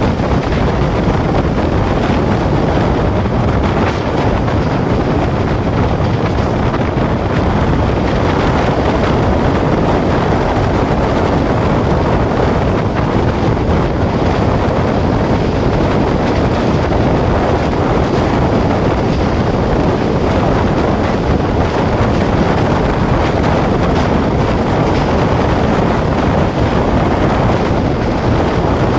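Express passenger train running at speed, heard from aboard: a steady, unbroken rush of running noise with wind buffeting the microphone.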